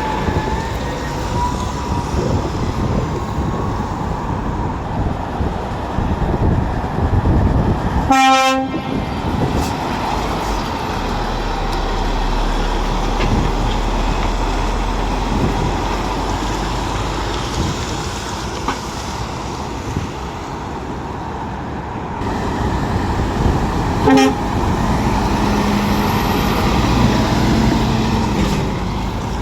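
Lorry engines and traffic running steadily, with two short truck horn blasts: a strong one about a third of the way in and a shorter, weaker toot about four-fifths of the way in.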